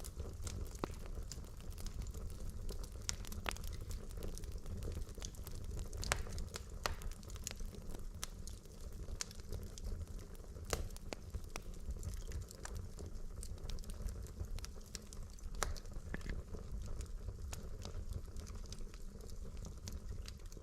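Wood logs burning in a fireplace, crackling with frequent sharp pops over a steady low rumble.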